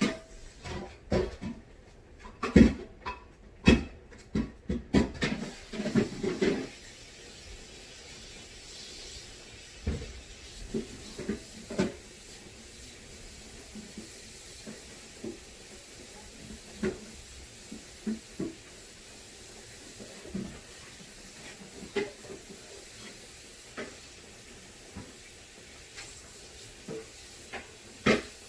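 Food containers and jars being handled and set down in a refrigerator: a quick run of knocks and clunks for the first several seconds, then occasional single knocks over a steady hiss.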